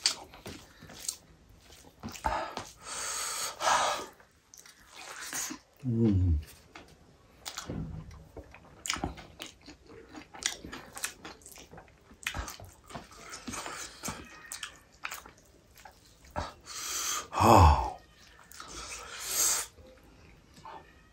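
Close, wet chewing and lip-smacking of chicken gravy and rice eaten by hand, with many small mouth clicks. Twice, a louder mouth sound falls in pitch.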